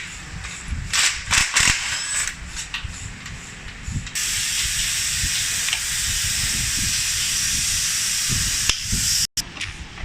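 Light mechanical clicks and knocks in a gearbox workshop, then a steady hiss of a pressurised jet that starts suddenly about four seconds in and cuts off about five seconds later.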